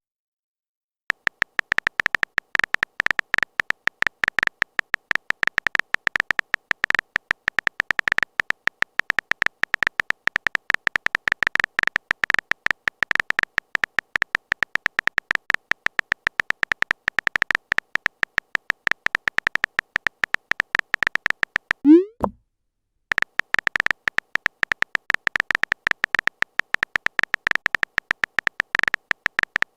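Texting sound effect: a fast, dense run of phone-keyboard typing ticks. It is broken about two-thirds of the way through by a short rising message blip, then the typing ticks resume.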